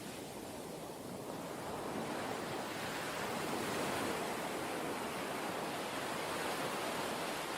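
Steady rushing of water that swells gradually over the first few seconds, then holds.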